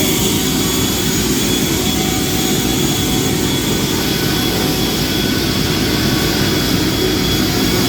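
Greenworks Pro battery-powered leaf blower running steadily at full speed, blowing polishing wool off the truck. A steady high whine sits over the rush of air.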